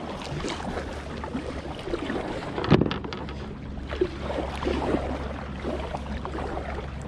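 Water sloshing and splashing around a kayak, with wind rumbling on the microphone. There is a sharp knock a little under three seconds in.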